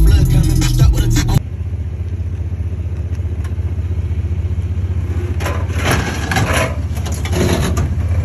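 Rap music cuts off about a second in, leaving a truck engine idling with an even low pulse. A few short noisy bursts rise over the idle past the middle and again near the end.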